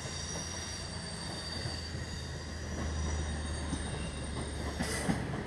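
Northern passenger multiple unit moving slowly through the station: a steady low running hum with a high, steady squeal from the wheels on the rails, and a few sharp knocks near the end.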